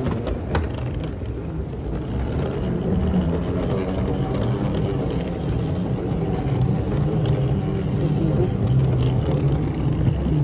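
Steady low rumble of an Airbus A350 jetliner heard inside the cabin, with one sharp click about half a second in.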